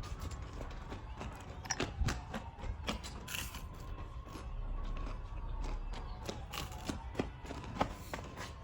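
Someone biting and eating, with scattered short crunches, clicks and handling noises over a faint steady hum.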